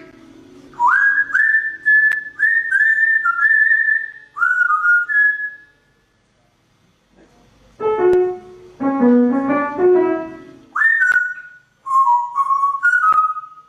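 Pet bird whistling a series of short, clear notes, each sliding up at the start, answered in the middle by a short piano-like melody; the bird whistles again after the melody.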